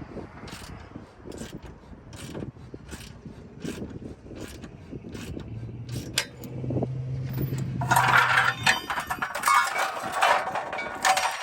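Socket ratchet loosening subframe bolts: slow, evenly spaced clicks about twice a second, then from about eight seconds in a louder, fast run of clicking that stops just before the end.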